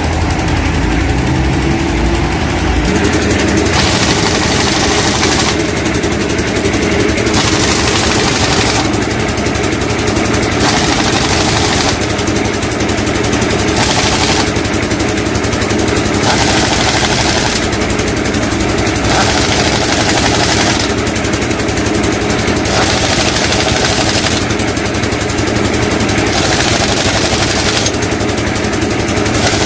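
A truck's diesel engine running steadily with a rapid rattle, its pitch rising briefly at the start. A high hiss comes and goes every second or two over it.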